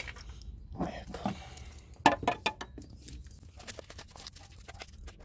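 A string of short clicks and knocks from parts being handled, the sharpest about two seconds in.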